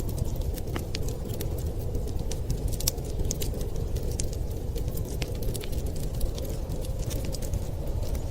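Wood fire crackling with frequent small, sharp pops over a steady low rumble of storm wind.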